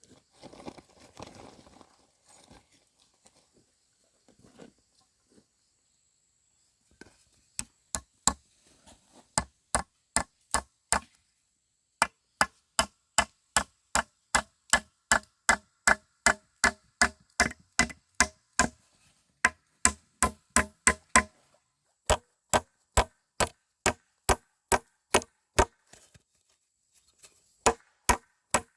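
Rhythmic hard blows of a tool, about two a second, each with a short ringing clang, starting after a few seconds of light rustling and pausing briefly twice.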